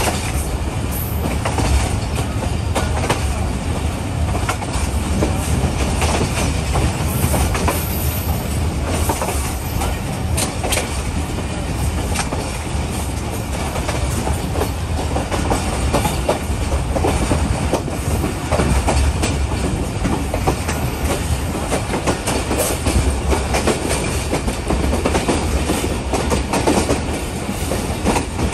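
Pak Business Express passenger coaches running along the track, heard from aboard: a steady low rumble with irregular clicking of the wheels over the rail joints.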